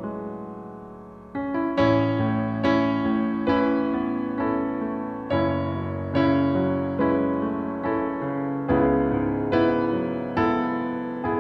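Soft background piano music: slow notes and chords struck about once a second, each ringing out and fading.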